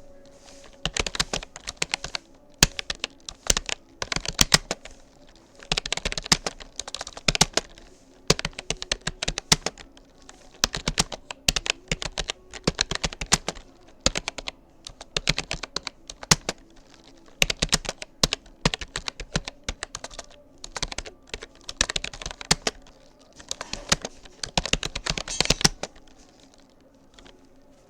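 Keystrokes on a Rapoo computer keyboard, typed in irregular bursts of quick clicks with short pauses between, stopping near the end.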